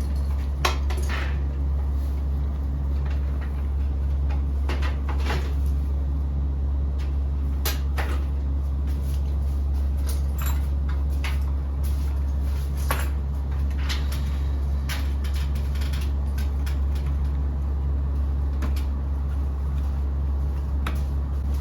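A steady low machine hum runs throughout, with scattered clicks and knocks over it.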